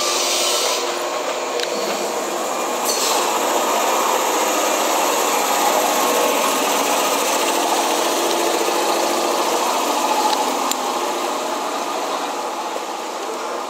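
JNR 115 series electric train's machinery running steadily: a dense mechanical noise with a few faint steady tones, easing slightly near the end.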